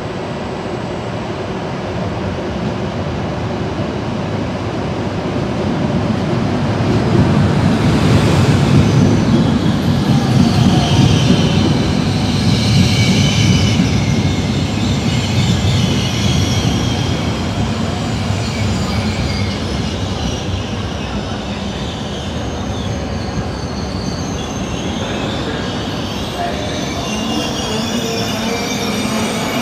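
A train passing on the track, its rumble growing to its loudest about eight to thirteen seconds in and then easing. A high, wavering metallic squeal from the wheels on the rails runs through the second half.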